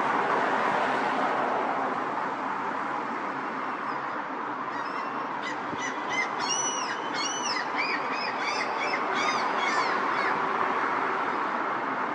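A bird calls a quick run of repeated, arched, honking notes from about four seconds in until about ten seconds in. Under it runs a steady rush of outdoor background noise.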